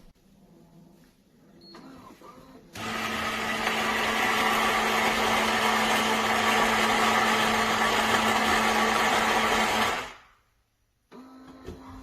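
Built-in grinder of a Philips 3300 Series fully automatic espresso machine grinding coffee beans: a loud steady whirring that starts abruptly about three seconds in and dies away after about seven seconds. Near the end a quieter steady machine hum starts up.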